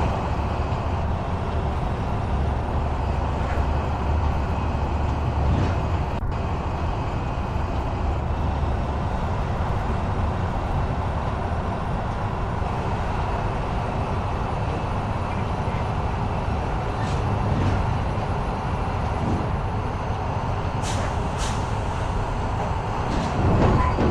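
Motor vehicle running steadily, a continuous low rumble, with a sharp click about six seconds in and a few lighter clicks near the end.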